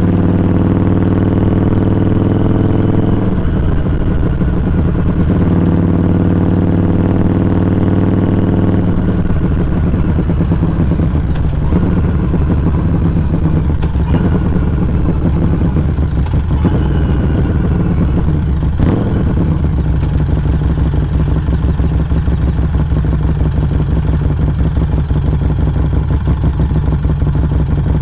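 Harley-Davidson Street 500 V-twin exhaust through a Firebrand Loose Cannon slip-on muffler, recorded close to the muffler while riding. It holds a steady engine speed with a brief dip, then about nine seconds in settles to a lower, lumpy pulsing.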